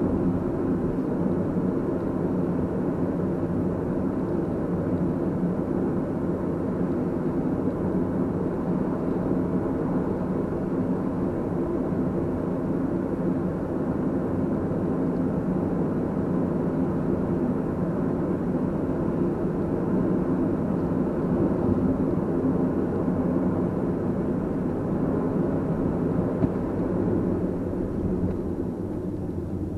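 A car being driven: steady engine hum and road noise, fading out near the end.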